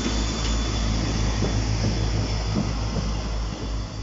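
A Class 170 Turbostar diesel multiple unit passing close by, a steady heavy rumble of its underfloor diesel engines and running gear. A few separate clacks come as its wheels strike rail joints.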